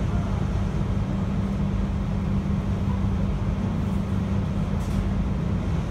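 Interior running noise of a JR Hokkaido 721 series electric multiple unit under way, heard inside the car: a steady low rumble and hum from the wheels on the rails and the running gear.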